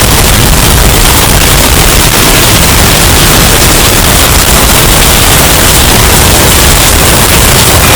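Hurricane wind sound effect, bass-boosted and overdriven into heavy distortion: a loud, steady, harsh wall of noise from deep bass to hiss, with no let-up.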